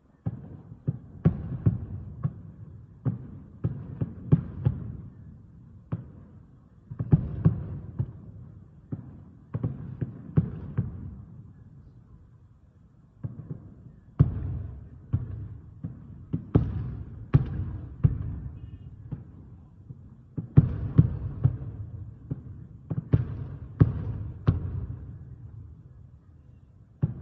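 Distant aerial fireworks shells bursting in rapid volleys of deep booms, each trailed by a rolling echo, with brief lulls between the volleys.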